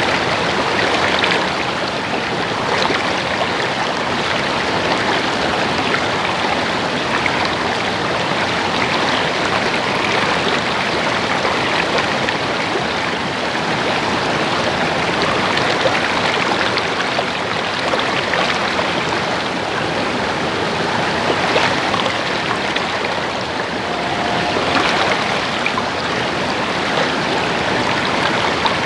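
Small stream of water babbling and splashing over rocks, a steady, even rush.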